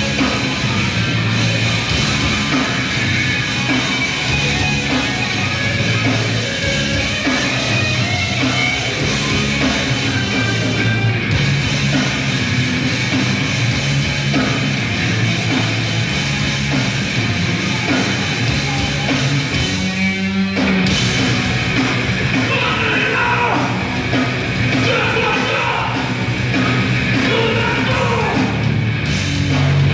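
Grindcore band playing live, very loud: distorted guitars, bass and drums hammering on without let-up. There is a brief break about two-thirds of the way through, then yelled vocals come in over the music.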